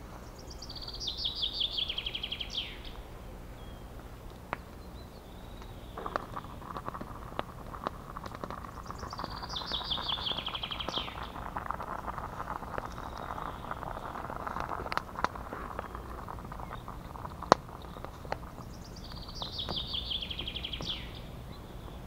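A songbird sings the same short song three times, about ten seconds apart: a quick trill of notes stepping downward and ending in a brief flourish. In between there is a soft rushing noise with scattered sharp clicks, the loudest a single click about three-quarters of the way through.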